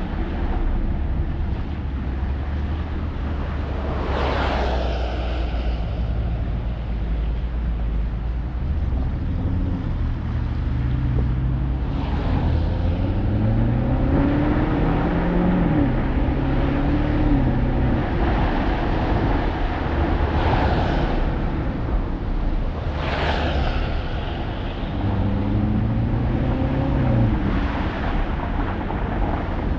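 Alpina XB7's twin-turbo V8 pulling as the SUV drives, climbing in pitch under acceleration and dropping back twice, over a steady rumble of tyre and road noise. Several brief rushing swells of noise come and go on top.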